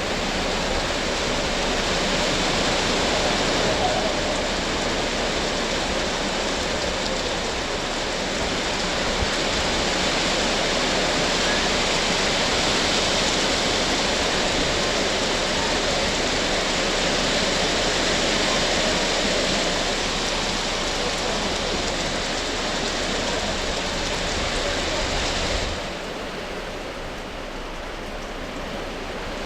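Heavy tropical rain pouring down as a steady, dense hiss of water. It drops noticeably in level near the end.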